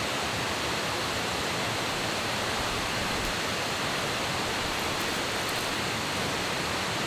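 Steady rushing of a mountain stream, an even, unbroken water noise.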